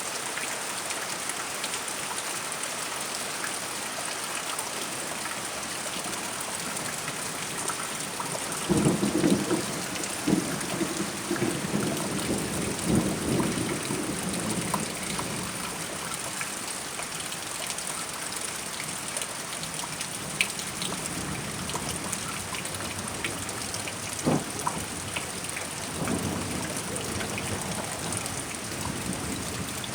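Steady rain with thunder: a peal breaks suddenly about nine seconds in and rumbles with several louder cracks for about six seconds, then a single sharp crack and a shorter rumble come later.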